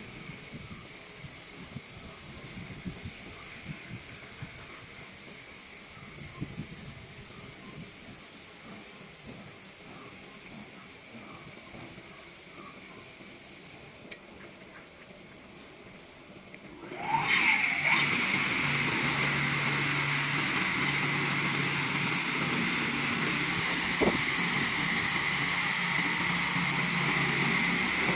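Single-arm touchless car wash machine at work: a steady rushing noise with light clicks. About seventeen seconds in it gets suddenly much louder, a steady rush with a high whine and a low hum.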